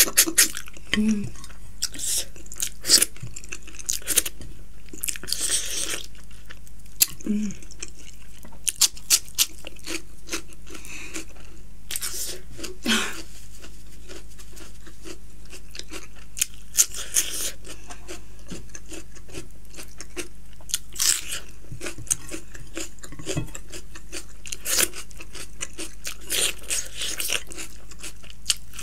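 Close-miked eating sounds of a person chewing soft dhido and chicken curry eaten by hand: wet chewing and lip smacks with scattered sharp clicks. A steady low hum runs underneath.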